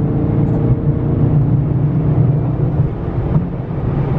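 Dodge Charger Scat Pack's 6.4-litre 392 HEMI V8 cruising on the road: a steady low engine and exhaust drone with tyre and road noise. A higher steady tone fades out about three seconds in.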